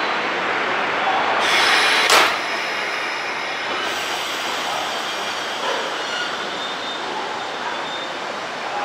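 JR 201 series electric commuter train at a platform: a rush of air and a sharp bang of a door shutting about two seconds in, then the steady noise of the train as it starts to move off.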